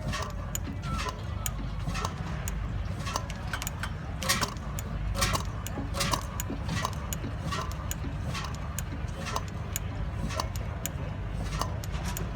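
Stationary engine running slowly and steadily: a low rumble with a sharp, regular beat about two to three times a second.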